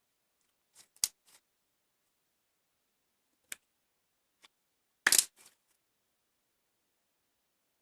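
A few sharp clicks and knocks against silence: a small group about a second in, two single ticks later, and a louder quick cluster of knocks about five seconds in.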